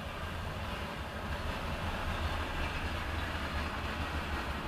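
Freight train cars rolling past in a steady rumble with a hiss of wheels on rail, heard through the windshield of a parked car.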